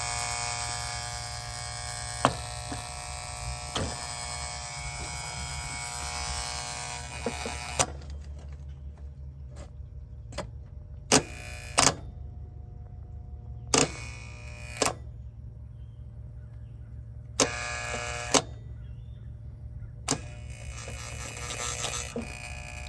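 The corroded 1.5-pole contactor of a 2006 York heat pump buzzing while energized, a wicked buzz that marks the contactor for replacement. The buzz is louder for the first eight seconds or so, then quieter, with a few sharp clicks and knocks along the way.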